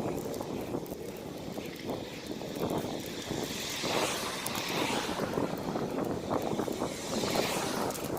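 Wind buffeting the microphone during a bicycle ride, over the steady noise of the tyres on the road, with a couple of broader swells of noise partway through.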